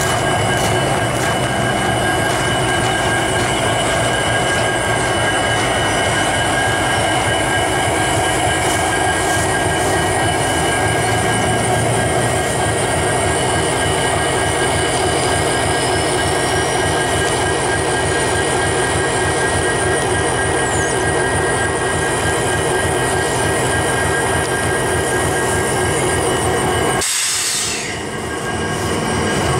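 Diesel freight locomotives passing close by: Union Pacific units and a Norfolk Southern Central of Georgia heritage unit. Their engines run with a steady heavy rumble, and steady high-pitched squealing tones come from the wheels. The low rumble briefly drops out near the end.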